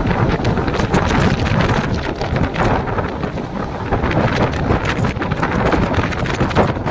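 Mumbai suburban electric train running at speed, its rumble heard under loud wind rushing and buffeting the microphone at the open door.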